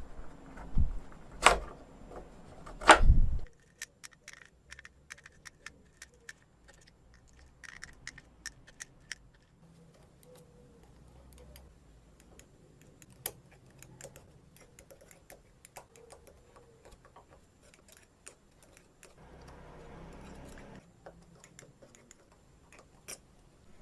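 Tools and small metal engine parts being handled during engine assembly: a few loud knocks in the first seconds, then scattered light metallic clicks and clinks, with a short scraping hiss a few seconds before the end.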